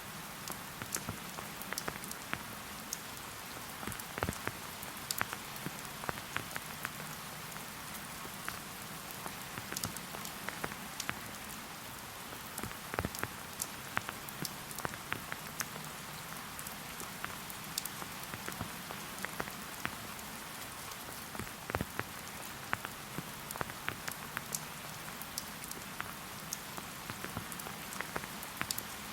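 Steady rain falling in a forest: an even hiss with many distinct single drops striking close by at irregular moments.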